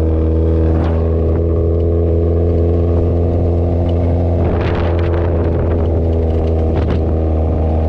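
Motorcycle engine running at a steady low speed, its pitch holding level, with a short stretch of rougher noise about halfway through.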